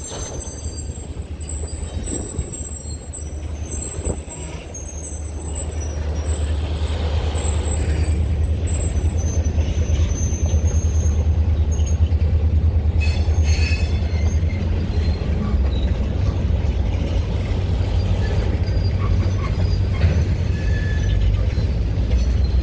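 A train led by a single diesel locomotive, its low rumble building about six seconds in and staying loud as it passes, with thin high wheel squeals early on.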